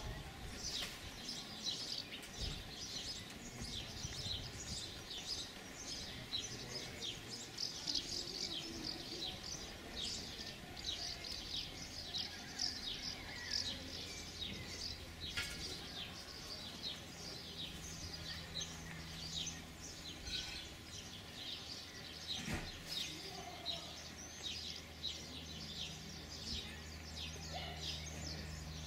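Songbirds chirping and singing busily and without pause. A faint low steady hum joins in about halfway through.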